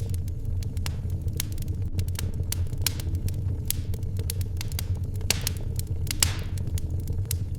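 Wood fire crackling in a fireplace: irregular small crackles and pops, with a couple of louder snaps a little past five and six seconds in, over a steady low rumble.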